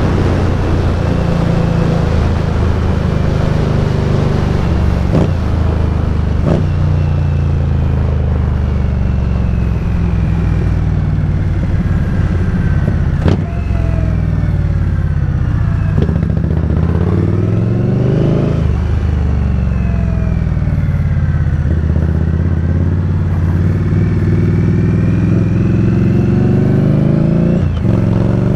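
Indian Scout Bobber's V-twin engine pulling the motorcycle along on the road. The revs rise and fall several times with the throttle and gear changes, and a few sharp clicks come through.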